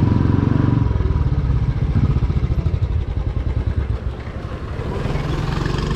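Motorcycle engine running steadily, a rapid even pulsing that eases off a little about three seconds in.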